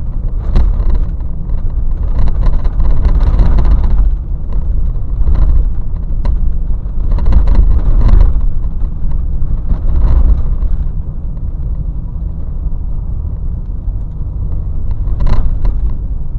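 A car being driven: a loud, steady low rumble of road and engine noise that swells and eases several times, calmer for the last few seconds.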